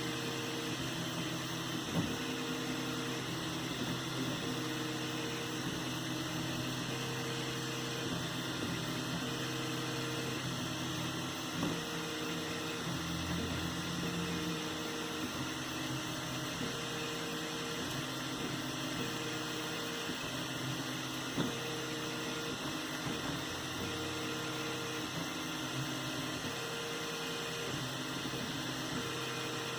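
3D printer running: a steady motor and fan hum, with the stepper motors sounding short, repeated tones about every one and a half to two seconds as the axes move.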